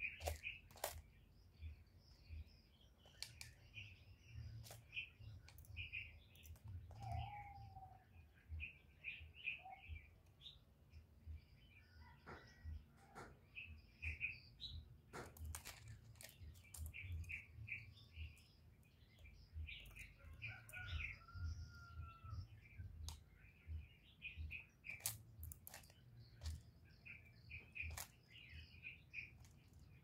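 Faint chirping of small birds: short chirps in quick runs, again and again, with scattered sharp clicks and taps.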